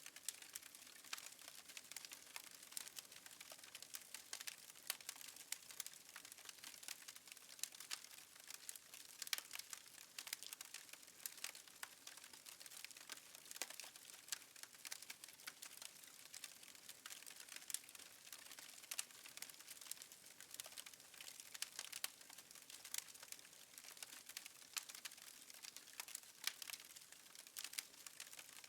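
Faint crackling of a fireplace fire: a steady, irregular stream of small pops and snaps over a soft hiss.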